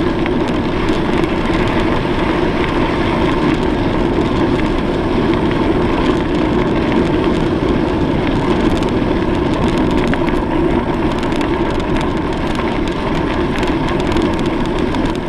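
Steady rush of wind and road noise on the microphone while riding, with faint scattered ticks and rattles throughout.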